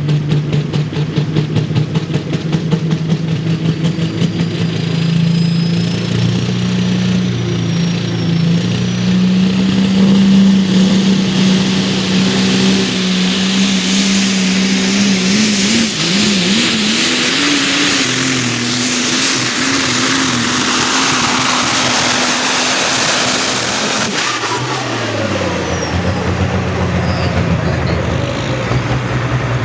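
Twin-turbocharged diesel 4x4 pickup engine at full throttle under the load of a pulling sled, with a high turbo whistle over the engine's drone. The revs climb and waver near the middle. About five seconds before the end the throttle comes off: the whistle sweeps down and the engine falls back to a low idle.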